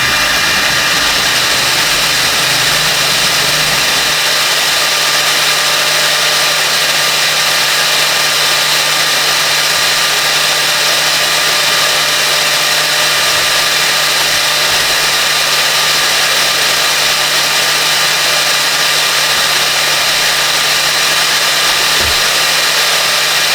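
Steady mechanical whirring with an even hiss and a constant low hum that sets in about four seconds in, like a machine's motors or fans running.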